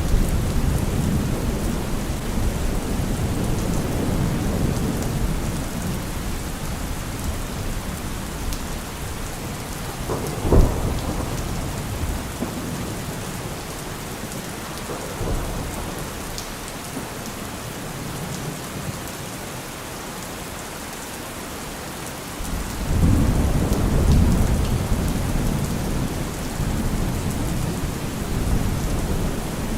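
Heavy rain falling on a car roof with thunder throughout. A rumble dies away over the first few seconds, a sharp thunderclap comes about ten seconds in, and a long rumble builds again about two-thirds of the way through.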